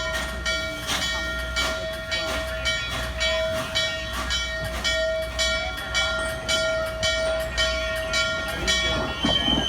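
Norfolk and Western 611 4-8-4 steam locomotive chuffing at a steady rhythm of about three exhaust beats a second. A steady ringing tone runs over the beats and stops shortly before the end, where there is a louder rush of noise.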